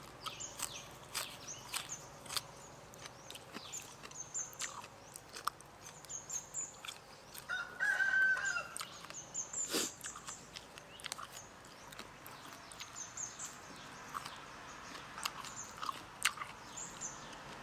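Close chewing with many short crisp clicks and crunches of fresh raw greens, with small birds chirping. A rooster crows once about eight seconds in, louder than the chewing.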